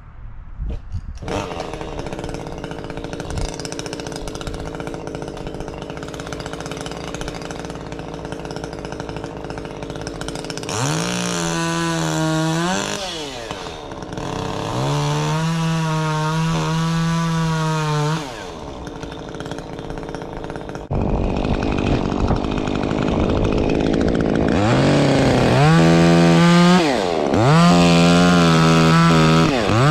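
Stihl MS 150 T top-handle chainsaw idling, then throttled up to full speed four times, the longest run about three seconds, as cuts are made; its muffler has been opened up.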